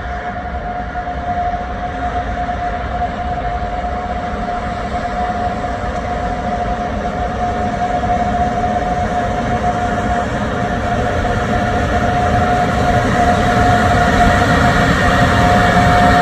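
A train approaching, its rumble growing steadily louder, with a steady high whine held through it.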